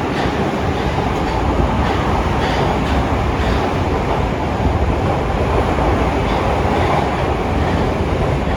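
Osaka Metro Midosuji Line subway train running along the station platform: a loud, steady rumble of wheels and traction motors.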